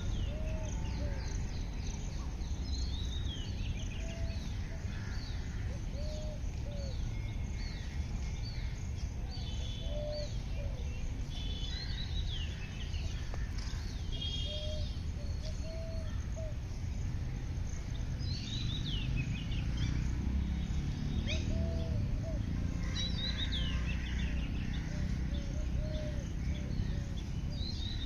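Several birds singing and calling: many quick high chirps and falling notes, with short lower notes repeated every second or two. A steady low rumble of outdoor noise runs underneath.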